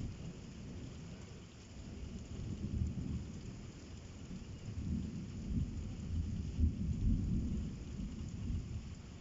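Thunder rumbling over steady rain in a thunderstorm, swelling about halfway through and loudest around seven seconds in before easing.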